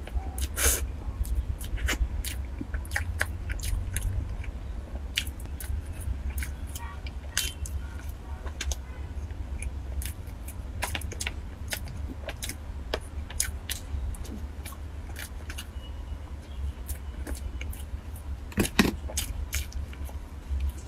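Close-miked eating of soft cream-filled roll cake: irregular wet mouth clicks and smacks of chewing, mixed with light taps and crackles from the plastic tray, over a steady low hum. One louder knock comes near the end.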